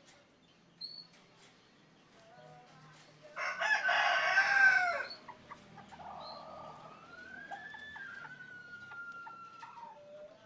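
Rooster crowing: a loud crow about three and a half seconds in, then a long drawn-out call.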